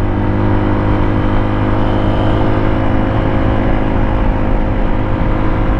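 Suzuki DR200's single-cylinder four-stroke engine running at a steady speed under way, with rushing wind noise over it.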